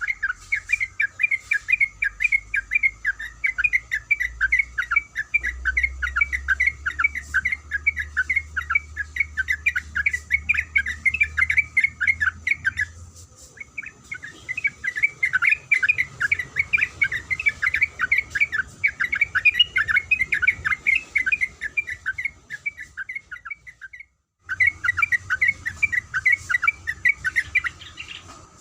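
Yellow-vented bulbul (trucuk) singing a long, rapid run of chattering notes, with a short pause about halfway and a brief cut-out near the end.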